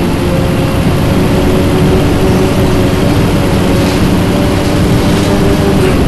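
Scania bus engine running under steady load, heard from inside the bus, its pitch holding level with a slight rise through the middle.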